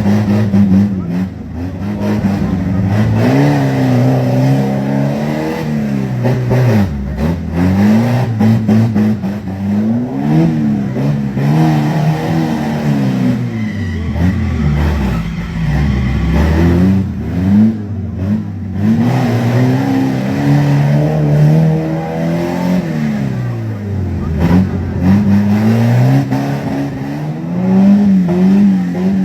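A vehicle engine revving up and down again and again, its pitch climbing and then dropping every few seconds.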